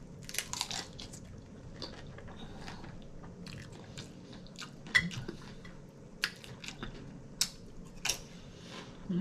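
A person chewing a mouthful of tortilla chip loaded with taco meat, nacho cheese and sour cream, with sharp crunches scattered throughout, the loudest about five seconds in.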